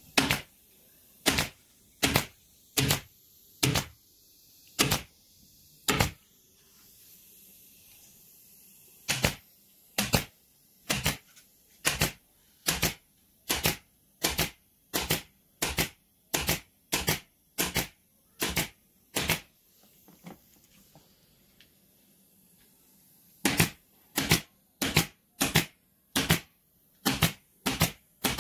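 Runs of single sharp clicks, about one to one and a half a second, broken by pauses of a few seconds.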